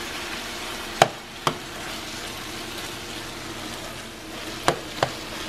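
Chicken and onions in cranberry sauce sizzling steadily in a frying pan while being stirred with a metal spoon, which knocks against the pan twice about a second in and twice again near the end.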